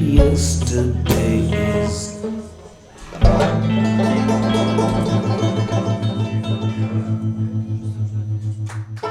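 Instrumental ending of a folk-blues song on guitar. A held chord dies away, then a final chord is struck with a low thump about three seconds in. It rings on with an even pulsing waver and fades out.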